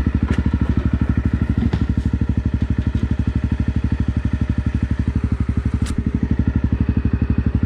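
Honda CRF250 Rally's single-cylinder four-stroke engine running at steady low revs, its firing pulses even and unchanging. A few sharp clicks or knocks sound over it, once near the start, once about two seconds in and once near six seconds.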